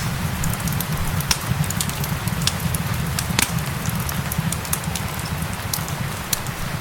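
Wood fire crackling, with sharp pops several times a second, over a steady hiss of rain and a low rumble.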